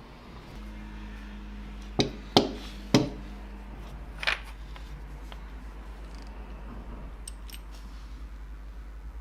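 Four sharp metallic clicks in the first half, the loudest about two seconds in, then a few faint ticks near the end, over a steady low hum.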